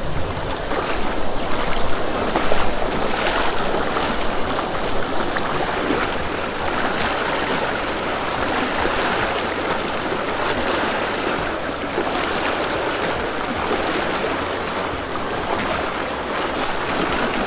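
Fast-flowing mountain stream rushing steadily, with splashing as someone wades through the strong current.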